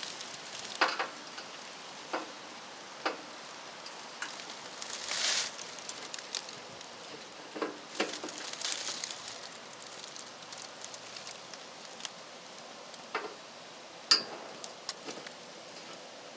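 Scattered small clicks and knocks, irregularly spaced, with two brief rustles about five and eight seconds in, over a steady faint hiss.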